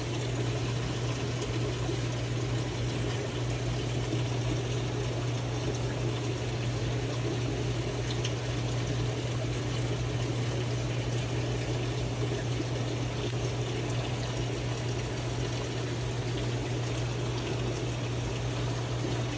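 Steady running water with a constant low hum underneath.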